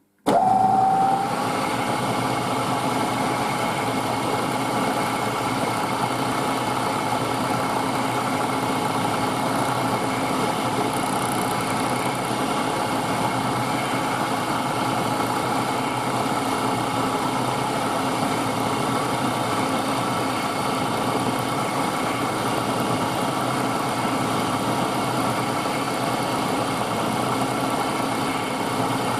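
Milling machine switched on: the spindle motor starts abruptly with a brief rising whine, then runs steadily.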